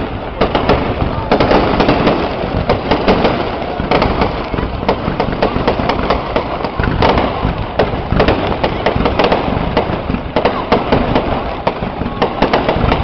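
Fireworks going off in a dense, continuous barrage: rapid, irregular bangs and crackling of many shells and firecrackers overlapping, with no pause.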